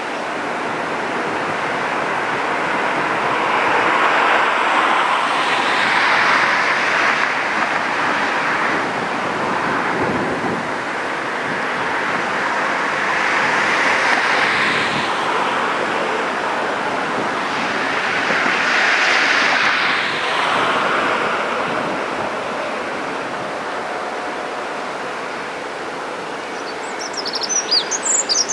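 Outdoor wind rushing, swelling and fading every five or six seconds, with no clear engine note. A bird chirps near the end.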